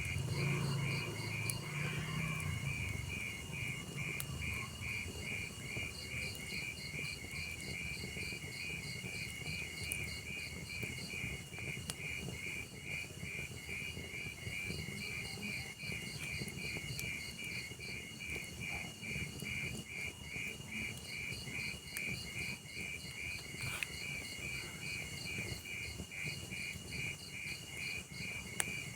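Crickets chirping in an even pulsing rhythm, about four chirps a second, over the low hiss and crackle of a wood fire with a few sharp pops.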